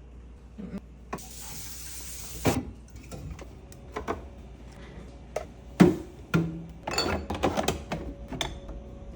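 A short burst of running or spraying water, about a second and a half long, then a series of knocks and clatters as hard items are handled and set down.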